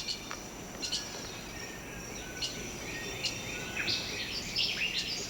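Tropical rain forest ambience: many birds giving short chirps and whistles, more of them toward the end, over a steady high insect hum.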